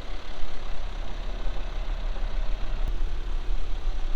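Car driving along at a steady pace: engine and road noise with a constant low rumble.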